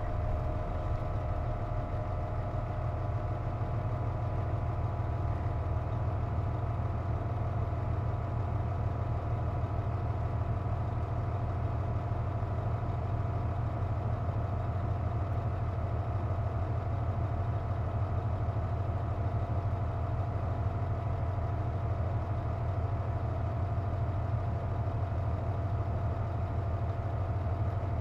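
Cabin sound of a Hino Rainbow KC-JP250NTN bus: the diesel engine running steadily with a low rumble. Over it sits a steady, even tone, the abnormal noise that comes when the air conditioning is on.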